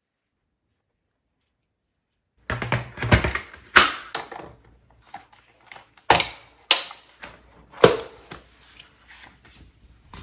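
Parts of a new Dyson Ball vacuum being handled and unpacked: a series of sharp plastic clicks and knocks, with rustling of packaging, starting a couple of seconds in.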